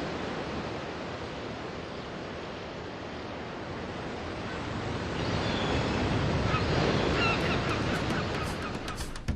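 Steady rush of surf and wind. From about five seconds in, birds call in short, repeated notes.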